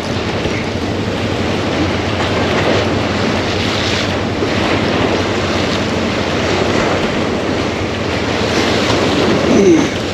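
Wind buffeting the microphone over steady surf. Near the end comes a short falling squeak, the loudest moment.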